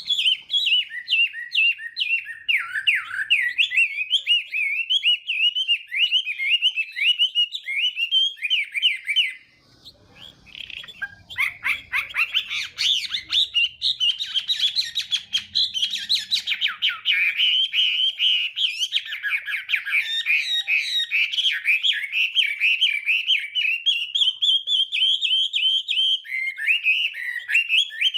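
Chinese hwamei singing a fast, unbroken run of varied whistled phrases. The song breaks off for a moment about ten seconds in, then resumes.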